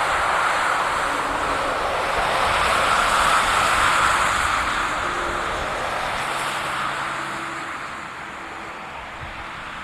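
Jet engines of a DHL Boeing 757-200F freighter running as it departs, a loud steady roar that swells to a peak a few seconds in and then fades away.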